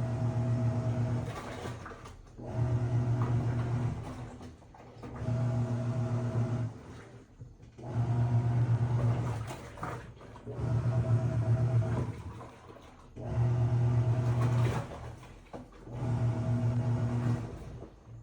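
Philco 14 kg washing machine agitating: motor hum and churning water come in regular bursts of about a second and a half, one every two and a half seconds or so, seven times.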